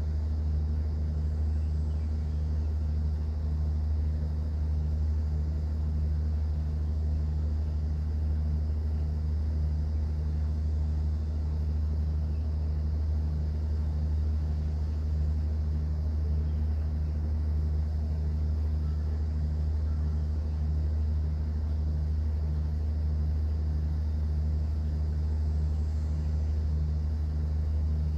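Cruise boat's engine running: a steady low drone with an even, regular throb.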